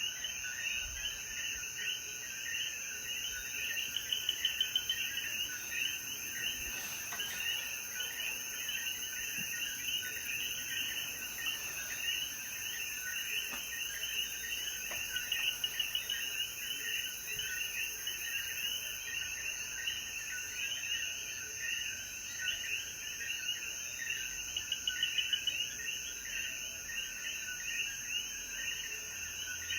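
Night chorus of Puerto Rican coquí frogs after rain: many overlapping chirping calls, over a steady high insect drone. The chorus swells louder three times, about ten seconds apart.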